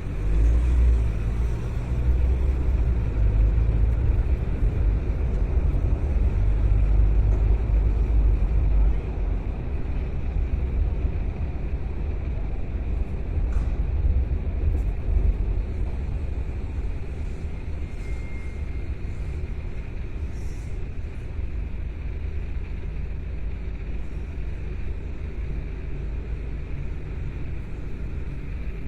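A car driving, with a steady low rumble of engine and road noise that is heavier for the first nine seconds or so and then eases off.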